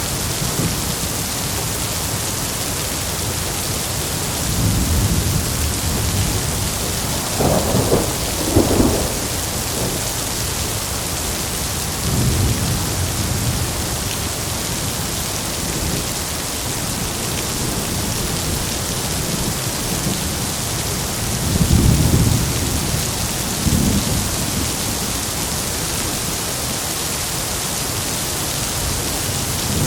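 Heavy rain falling steadily, with thunder rumbling several times over it. The sharpest claps come about eight seconds in, and another loud roll about twenty-two seconds in.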